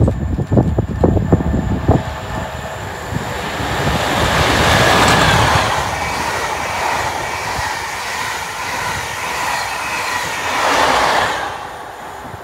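A train passing: a rush of wheel-on-rail noise that is loudest about five seconds in and dies away near the end, with low thumps in the first two seconds.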